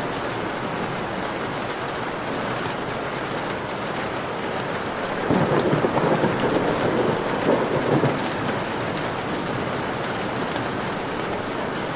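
Steady rain pattering on a window, with the small ticks of single drops. About five seconds in, a low roll of thunder swells up and rumbles for about three seconds before fading back under the rain.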